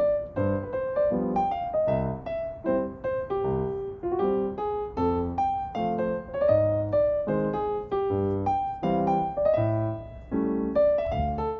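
Background piano music: a steady melody of struck notes over a bass line.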